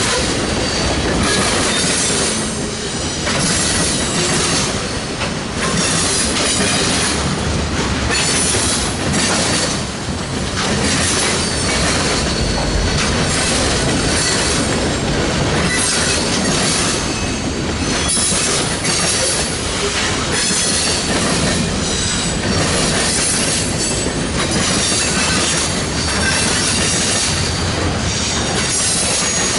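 Freight train rolling past close by: steel wheels clattering steadily over the rails, with faint high-pitched wheel squeal coming and going.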